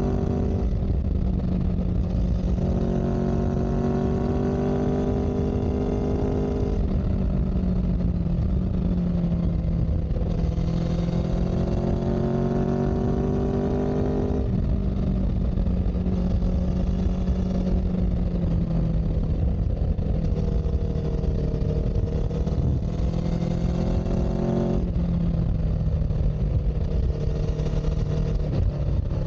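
Motor vehicle engine running under way. Its note climbs slowly and drops sharply several times, as when shifting up through gears, over a steady low rumble.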